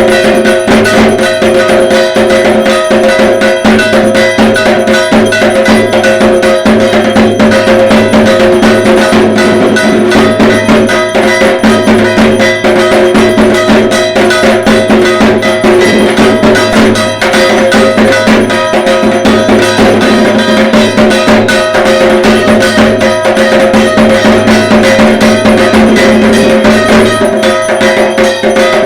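Dhak, the Bengali barrel drum of Durga Puja, beaten in a fast, unbroken rhythm, with metallic ringing percussion clanging along.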